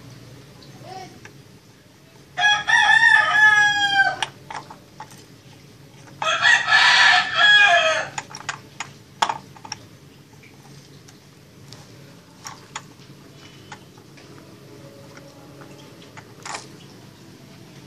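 A rooster crowing twice, each crow about a second and a half long and falling in pitch at the end, over a faint low steady hum.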